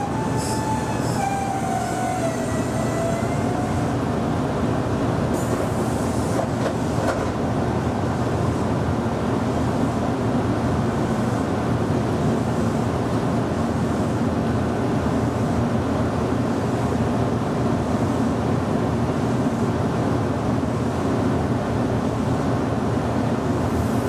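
Meitetsu local electric train running along the track, with a steady rolling rumble. Over the first few seconds a whine wavers down and back up in pitch.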